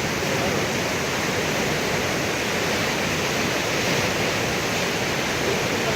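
Manthoka Waterfall's high falls, the water crashing down in a steady, loud rush that doesn't let up.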